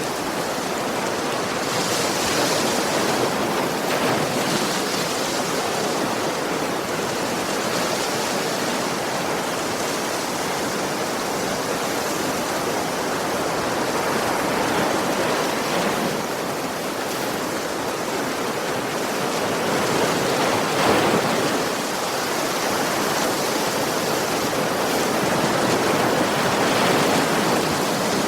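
Sea waves washing onto a beach: a continuous rush of surf that swells softly now and then as waves break.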